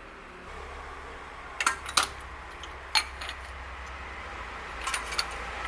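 Metal tools clinking against the engine while spark plugs are loosened from a long-stored Contessa petrol engine: five sharp clicks spread over a few seconds, over a low steady rumble that starts about half a second in.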